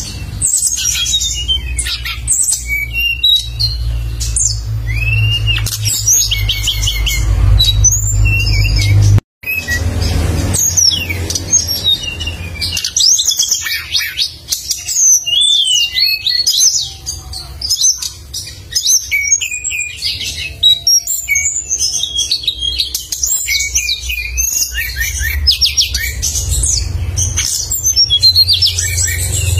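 A songbird singing busily, with rapid sharp chirps, trills and quick whistled phrases, over a steady low hum. The sound breaks off for an instant about a third of the way in.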